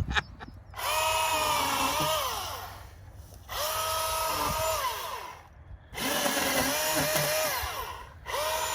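Milwaukee Fuel battery chainsaw run in short trigger pulls: its electric motor whine rises as it spins up, holds for about two seconds and falls away on release. This happens three times, with a fourth pull starting at the end.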